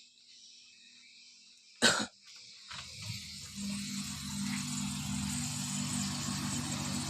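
One short cough about two seconds in. Then a refrigerator compressor starts and runs with a steady hum that grows louder over the next second or so.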